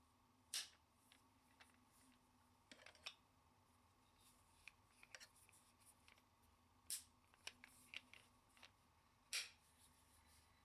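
Faint handling sounds in a quiet room: a scattering of short, sharp clicks and knocks. The loudest come about half a second in, about seven seconds in and near the end, with smaller ticks between.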